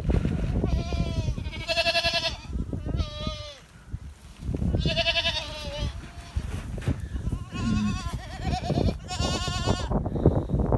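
Goats bleating repeatedly, about six high, wavering calls spread over several seconds, with a steady low rumble underneath.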